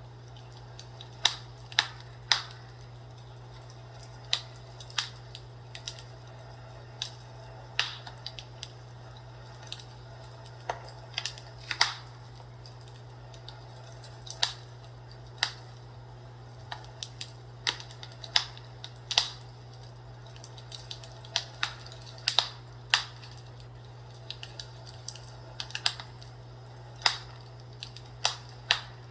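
Fireplace crackling: irregular sharp pops and snaps, about one a second and sometimes in quick clusters, over a steady low hum.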